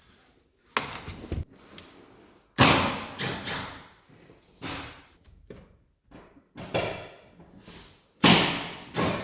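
A series of irregular thumps and knocks from hands and tools working at a car's rear seat and interior trim. The loudest comes about two and a half seconds in and another near the end, with short pauses between them.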